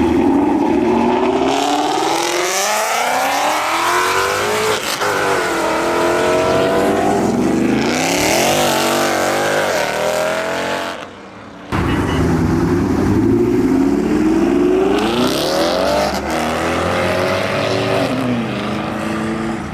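Car engines revving hard under full-throttle acceleration, the pitch climbing and dropping back at each gear change. After a short break a little past halfway, another hard acceleration climbs through the gears.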